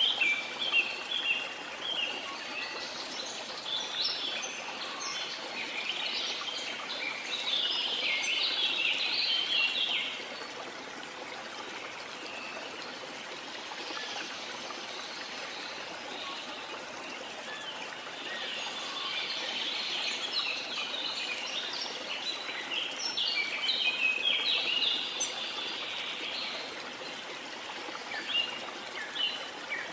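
Running water rushing steadily, with many birds chirping in quick high calls over it. The calls come in two busy spells, one at the start and one past the middle, with only the water and a few calls between.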